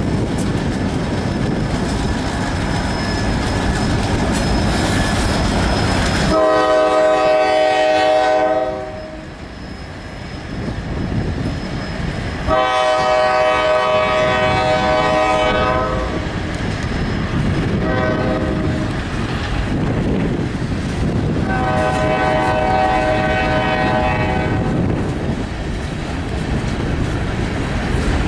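A diesel freight train passing close by, first the rumble of its EMD locomotives, then the clatter of its freight cars rolling over the rails. Over it a locomotive horn sounds a chord of several notes in the grade-crossing pattern: long, long, short, long.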